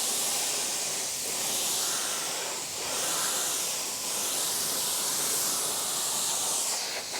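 Steady hiss of a water spray from a pressure washer wand playing over a car's bodywork, with small dips in level.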